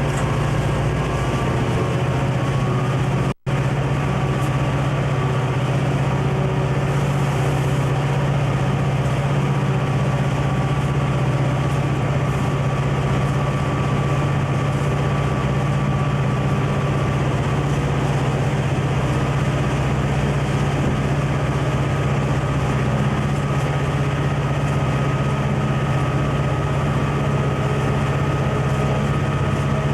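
Conrail diesel locomotive engine running with a steady low drone, broken by a momentary dropout in the audio about three seconds in.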